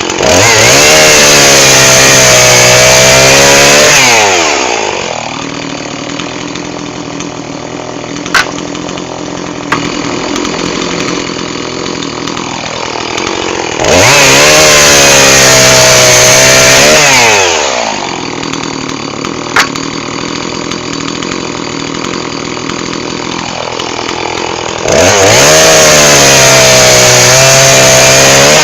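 Two-stroke chainsaw revving to full throttle three times for about four seconds each, cutting firewood, and dropping back to idle in between. The pitch sags a little mid-cut under load. Two sharp clicks come during the idle stretches.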